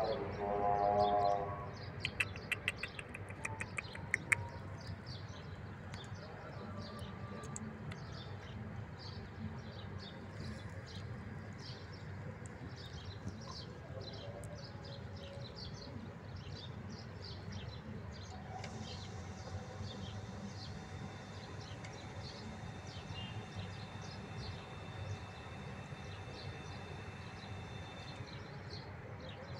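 Outdoor background of small birds chirping on and off over a low steady hum. A short pitched call opens it, a fast run of clicks follows about two seconds in, and a steady high tone holds for about ten seconds in the second half.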